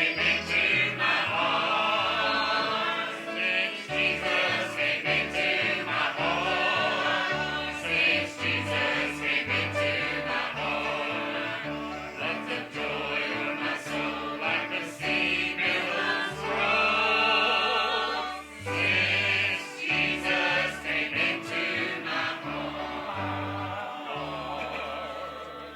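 Church choir singing with instrumental accompaniment and a stepping bass line, the music tailing off at the very end.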